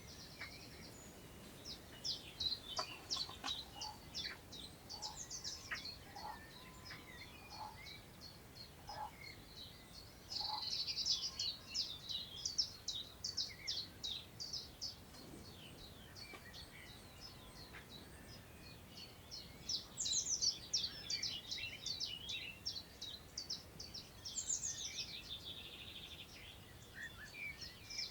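Several wild songbirds singing over one another, quick phrases of high chirping notes coming in bursts, busiest about ten seconds in and again from about twenty seconds in. Beneath them a faint steady hiss of wind moving through long grass.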